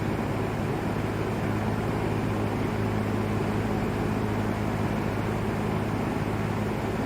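LAU Ultra Twenty 20-inch box fan running steadily: an even rush of moving air over a constant low motor hum.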